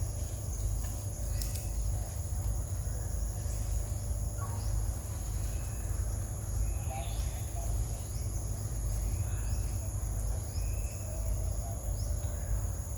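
Outdoor insect chorus of cicadas or crickets, a steady high-pitched drone at two pitches, over a constant low rumble, with scattered short bird chirps.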